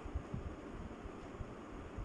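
Chicken curry frying in oil in a kadai: a steady low hiss with a few soft low knocks near the start and again about one and a half seconds in.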